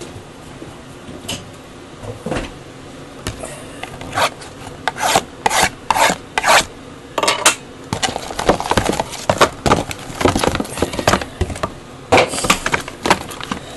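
A box of 2012 Topps Museum Collection baseball cards being opened and handled: quick rubbing and scraping of cardboard and packaging, in short strokes that come sparsely at first and grow busier after about five seconds.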